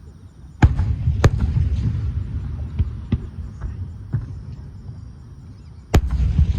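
Aerial firework shells bursting: two sharp booms in the first second and a half and a third near the end, each followed by a long low rumble, with lighter cracks in between.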